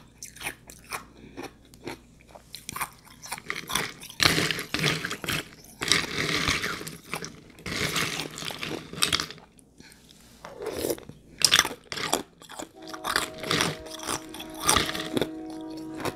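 Ice being bitten and chewed close to the microphone, with sharp crackling crunches and grinding between the teeth. Near the end a steady tone of several pitches sounds under the chewing.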